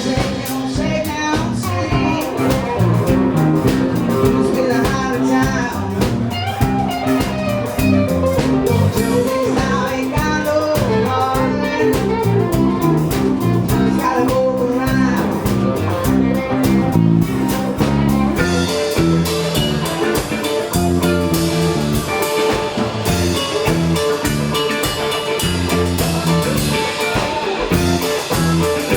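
Band playing blues-style music: singing over guitar and drums, the voice dropping out a little past the middle while the guitar and drums carry on.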